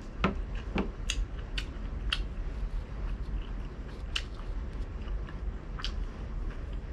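A person chewing fried pork belly that is soft rather than crispy, with short, sharp mouth clicks coming irregularly every half second to a second.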